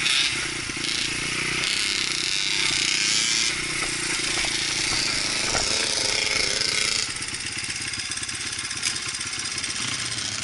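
Dirt bike engine running under a steady rush of noise, dropping somewhat in level about seven seconds in.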